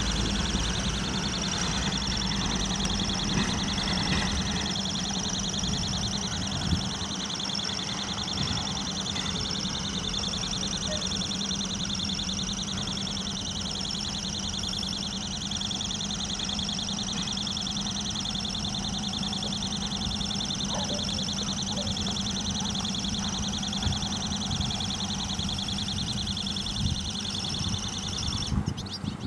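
Freight train hauled by a 3TE10M diesel locomotive pulling away into the distance: a steady low engine hum with wheel rumble, under a steady high buzzing that stops abruptly near the end.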